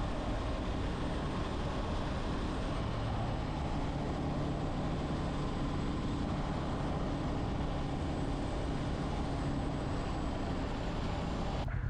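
Motorcycle engine running steadily on the road, mixed with wind rushing over the microphone. The sound drops out abruptly near the end.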